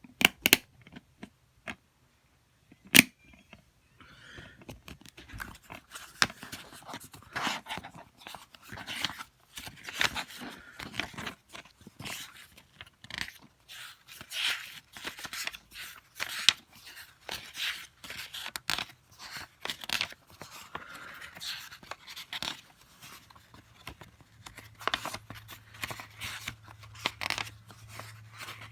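Plastic DVD cases and their packaging being handled: a few sharp clicks at first, then a long run of crinkling, rustling and small clicks.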